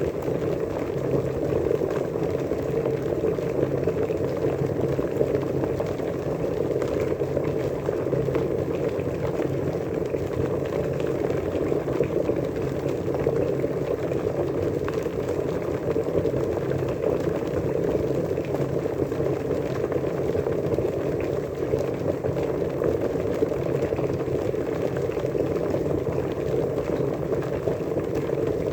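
Water at a steady rolling boil, a continuous bubbling and churning with fine crackles and no change in intensity.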